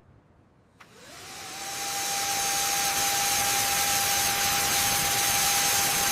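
Jet aircraft engine spooling up: after a brief hush, a whine rises in pitch and settles into a steady tone under a loud, even rushing roar.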